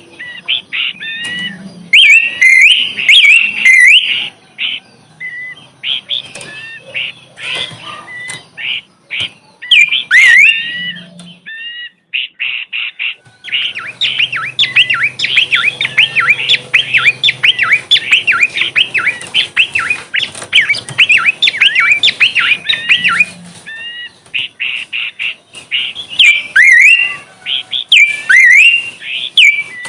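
Bush bird singing a fast, chattering string of high, sweeping chirps and squeaky notes in spurts. About halfway through it breaks into a long unbroken run of rapid notes lasting around ten seconds.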